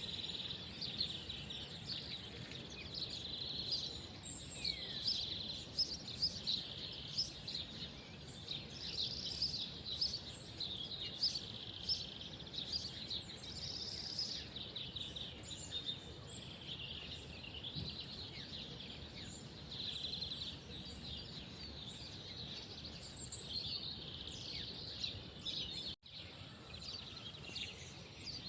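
Many small birds chirping and twittering together without pause, over a low, steady background rumble. The sound drops out for an instant a couple of seconds before the end.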